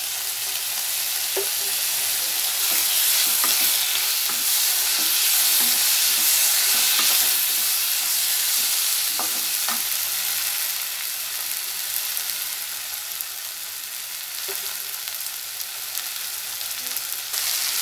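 Chopped vegetables and chicken with chili sauce sizzling in a kadai, stirred with a wooden spatula that now and then scrapes and taps the pan.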